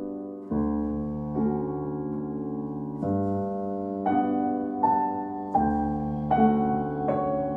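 Slow, soft solo piano music: gentle chords struck about once a second, each left to ring.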